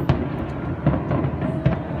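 Fireworks going off: three sharp bangs over a continuous low rumble.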